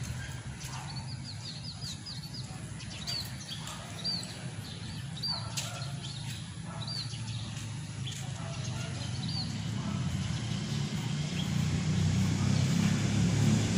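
A bird chirping repeatedly in short, high chirps, some in quick runs, over a low outdoor rumble that grows louder toward the end.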